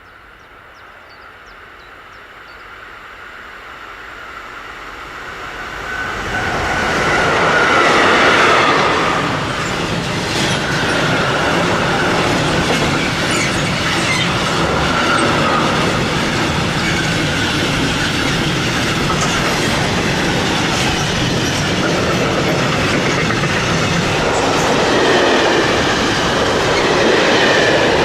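An electric train approaching and then passing close by, growing louder over the first six seconds or so, then a steady loud rumble of wheels on rail with clicking over the joints and a wavering wheel squeal.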